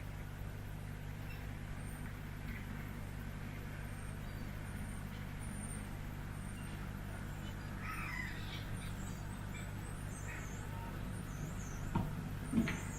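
N gauge model train running: a steady low hum with faint, short high squeaks, and a few sharp clicks near the end.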